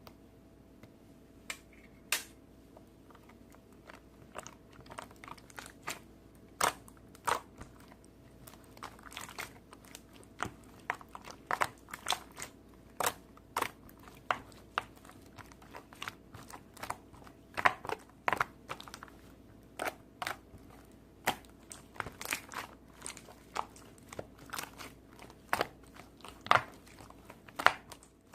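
Crunchy slime being pressed and worked by hand, giving irregular sharp crackles and pops, a few at first and coming thicker after about four seconds.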